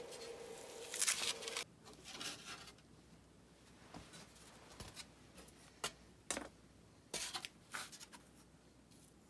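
Scattered short scraping and rustling sounds of hand work, the loudest about a second in, with a steady hum that stops after a second and a half or so.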